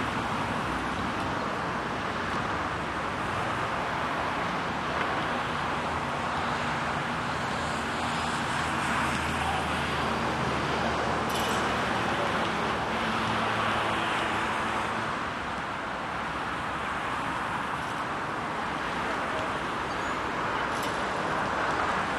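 Steady outdoor rushing noise at an even level, with a faint low hum partway through.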